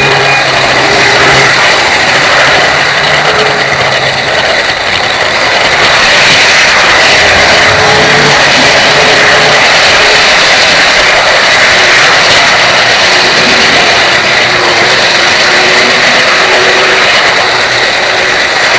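Model train running along the track, a steady loud whirring hiss of motor and wheels with faint wavering tones underneath.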